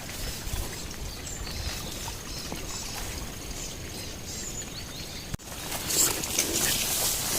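Small wild birds chirping in short repeated calls over a thin, steady high trill. About five seconds in, the sound cuts abruptly to a louder rustling hiss.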